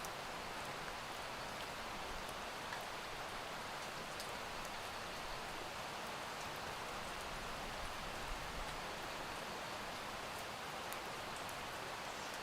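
Steady rain with scattered drops ticking on a surface.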